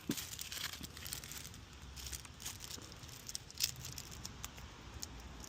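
Rustling, crinkling and small clicks of fishing tackle and packaging being handled and rummaged through.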